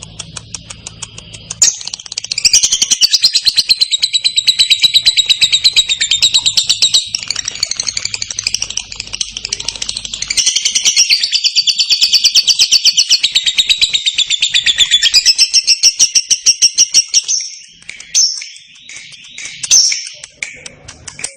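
Lovebird 'ngekek' song: a long, very fast chattering trill starting about two seconds in and running for some fifteen seconds, then breaking into a few separate chirps near the end.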